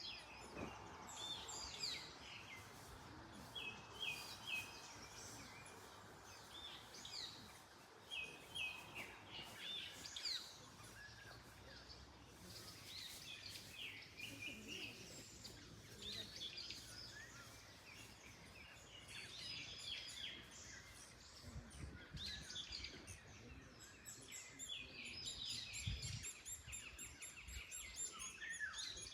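Several birds singing and chirping, with short repeated notes and trills throughout, over a faint steady rustle of wind in trees.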